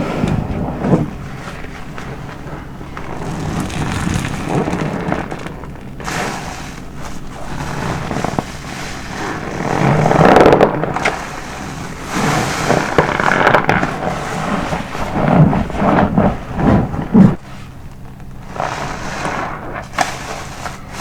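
Car wash sponge soaked in body soap being squeezed over and over, close up: wet squelching and crackling foam in irregular swells, the loudest squeezes about halfway through and again about two-thirds of the way in.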